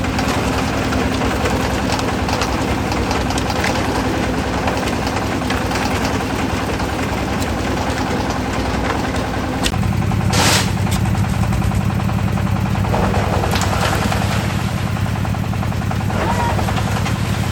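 Engine of a concrete mixer running steadily with a rattling, knocking note, which shifts lower and heavier about ten seconds in. A short burst of noise comes just after the shift.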